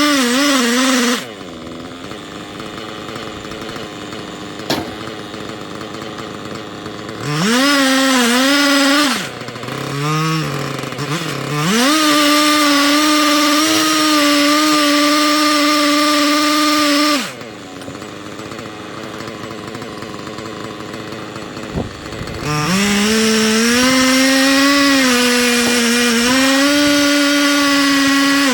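Husqvarna 3120XP, a large two-stroke chainsaw on a log mill, held at full throttle for several seconds at a stretch and then dropping back to a quiet low idle. It does this several times, with a brief rev partway through, and runs at full throttle again near the end.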